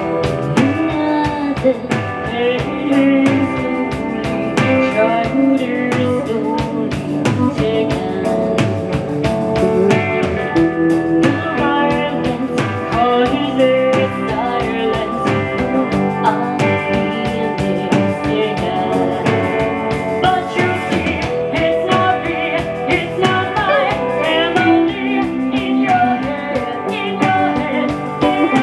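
A song performed live: a singer with guitar and drums.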